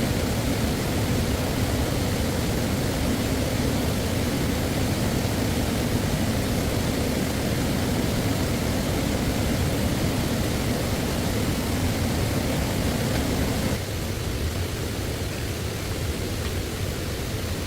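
Steady rushing of flowing stream water, which drops suddenly to a quieter level about fourteen seconds in.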